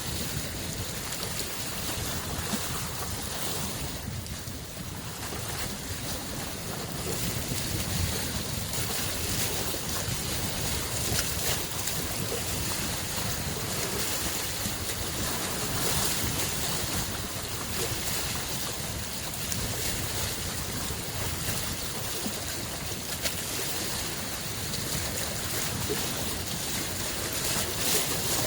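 Small lake waves washing onto the shore in a steady wash, with occasional sharper splashes and a brief lull about four seconds in.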